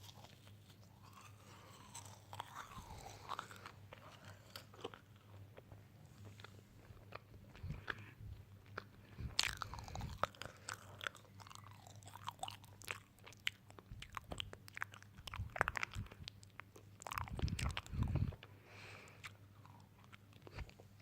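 Crunchy food being bitten and chewed close to the microphone: irregular crisp cracks and crunches, with a cluster of low, heavier chewing thumps near the end.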